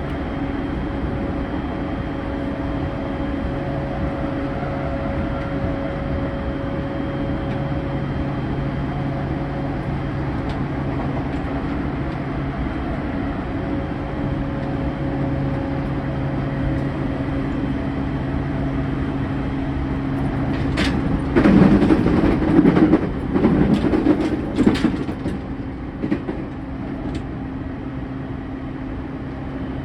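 Running sound heard inside a JR E231 series 0 commuter train's motor car (MoHa E231-83) under way: a steady rolling hum with a few held tones from the drive. A louder stretch of clattering and rumbling comes about 21 to 25 seconds in.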